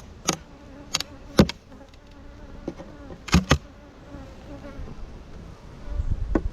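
Honeybees buzzing steadily around an open hive, a wavering hum, with about five sharp knocks or clicks in the first three and a half seconds, two of them close together.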